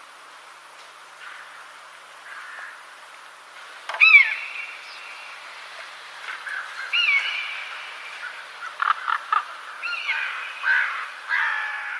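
Birds calling over a steady background hiss: a loud downward-sliding call about four seconds in, another about seven seconds in, then a busy run of short calls near the end.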